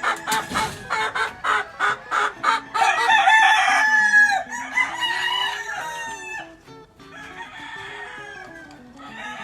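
Gamefowl roosters crowing. The loudest crow comes about three seconds in, and more crows follow, fainter toward the end, over background music.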